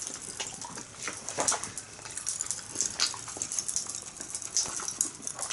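Mouth sounds of chewing a hard, chewy sour candy: irregular small clicks and smacks close to the microphone.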